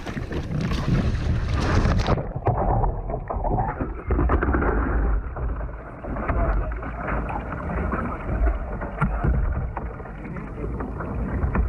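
Wind buffeting the microphone out on the water: a steady low rumble with scattered small knocks and splashes, which turns duller about two seconds in.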